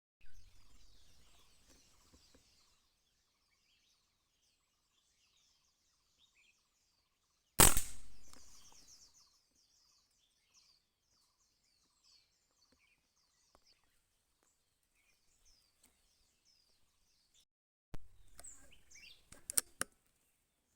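Small birds chirping throughout, with a single loud gunshot about seven and a half seconds in that rings out and fades over a second or so. Brief low knocks near the start, and knocks with a few sharp clicks near the end.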